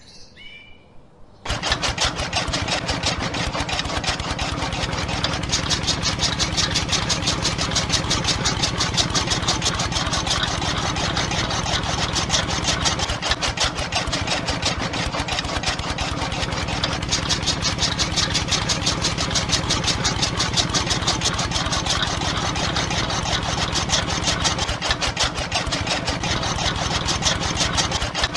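Small electric motor of a miniature model chaff cutter switched on about a second and a half in, then running steadily with a rapid, even buzzing rattle as its flywheel and cutter spin.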